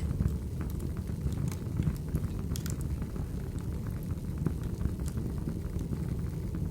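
Firewood burning: a steady low noise from the fire with irregular sharp crackles and snaps of the wood.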